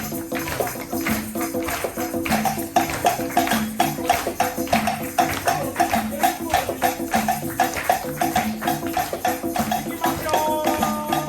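Live band music for dancing: tambourine and shakers keep a fast, even rhythm over a moving line of held notes, and a higher melodic part comes in near the end.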